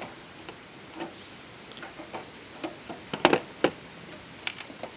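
Hand snips cutting a corrugated metal roofing panel: a scattered series of sharp metallic clicks, the loudest few coming together a little past three seconds in.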